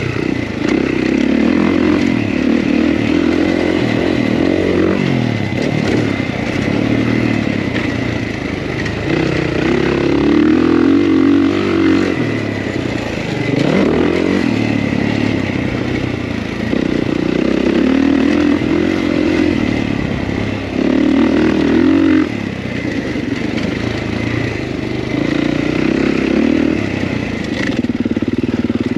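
Kawasaki KX450 motocross bike's single-cylinder four-stroke engine revving up and down over and over as the throttle is opened and shut, with louder surges every few seconds.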